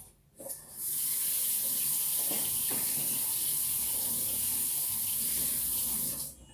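Running water: a steady rush that starts just before a second in and cuts off about six seconds in.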